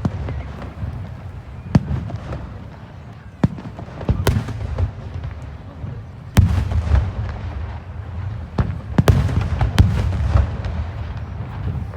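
Aerial fireworks shells bursting: a string of sharp bangs, some several seconds apart and some in quick pairs, over a continuous low rumble of echoing booms.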